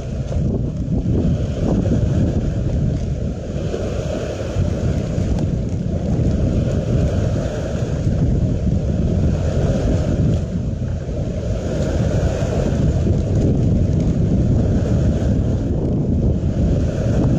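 Wind blowing across the microphone, a steady low rumble that swells and eases slightly.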